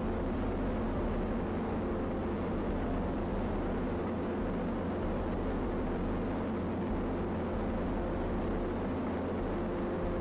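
Steady drone of an airplane engine, an even rumble with a constant low hum.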